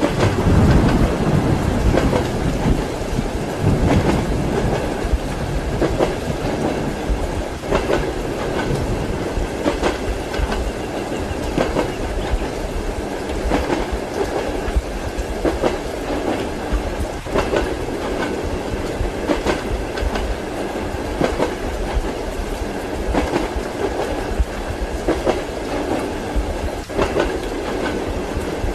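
Passenger train carriage wheels clattering over rail joints, with a steady rumble of the running carriage heard from inside a compartment. The clacks come irregularly, roughly every one to two seconds, and a heavier low rumble swells in the first few seconds.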